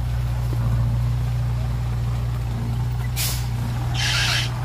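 Hyundai dump truck's diesel engine running steadily at a low hum, with two short hisses of released air near the end, like an air brake.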